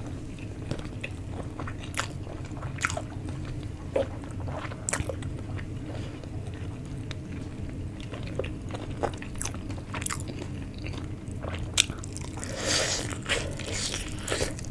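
A person chewing and biting into tandoori chicken, with irregular clicks and crunches and one longer, louder stretch near the end.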